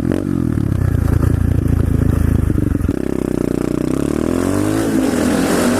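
125cc SSR pit bike's single-cylinder four-stroke engine running under throttle. About three seconds in its pitch drops, then it revs up again with the pitch rising near the end.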